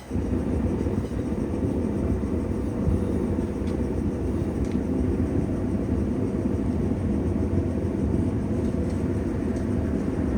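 Blacksmith's forge running with a steady low rumble that comes on abruptly at the start and holds even.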